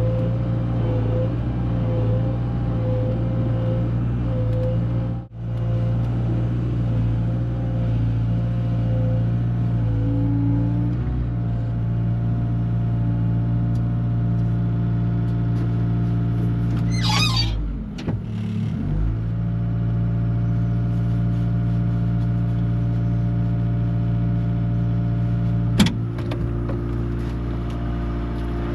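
Bobcat skid-steer loader's engine running steadily under work, with a brief high squeal about two-thirds of the way through and a sharp click near the end.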